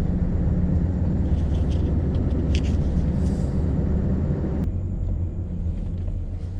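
Scania V8 lorry engine running while the truck moves slowly; about two-thirds of the way through the rushing noise above it drops away suddenly, leaving a steady low engine hum.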